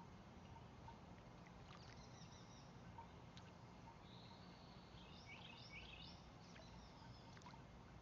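Faint bird chirping: a few short high notes, with a quick run of them about two-thirds of the way in, over a low steady background hum.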